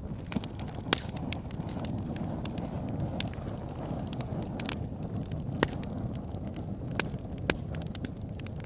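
Wood fire burning in a fireplace: a steady low rumble of flames with scattered sharp crackles and pops from the logs, a few louder pops standing out about a second in and again near the end.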